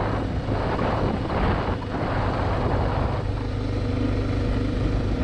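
Motorcycle engine running steadily while riding, with a rushing noise over it.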